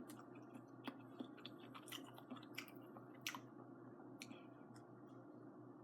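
Faint close-up chewing of fried fish tofu, with scattered soft, sharp mouth clicks over a low steady hum.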